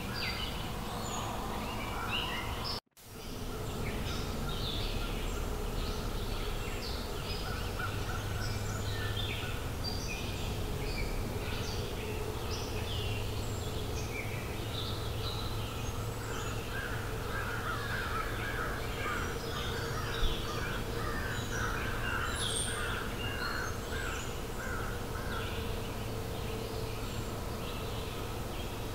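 Forest birds chirping and singing, many short calls overlapping, over a steady background hiss. The sound drops out briefly about three seconds in, and there is one sharp click about twenty seconds in.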